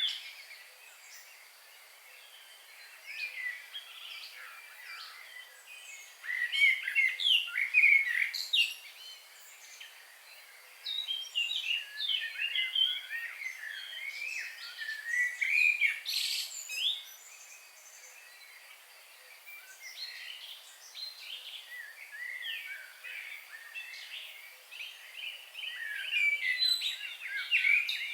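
Several birds singing and chirping together, short quick phrases that come in bursts with brief lulls between, over a faint steady background hiss.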